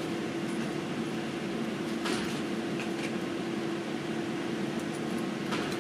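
Steady mechanical hum with a few faint clicks, and no gunshot.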